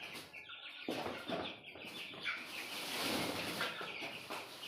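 A crowd of young broiler chicks, about 20 days old, peeping continuously in short, high, falling calls. A rustling noise rises under the calls around the middle.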